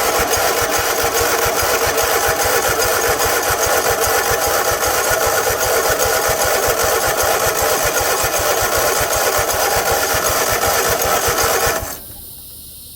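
Cub Cadet zero-turn mower's engine being cranked by its starter motor with a fast, even chugging, turning over without firing. It cuts off suddenly near the end. The engine won't catch: the owner takes it for a fuel problem after the mower sat unused and reaches for carb cleaner.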